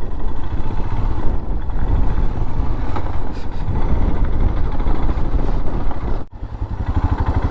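Motorcycle running on a rough track, its engine under a steady heavy rush of wind and road noise. Just after six seconds the rush drops out for a moment and the engine is heard as a quick, even putter.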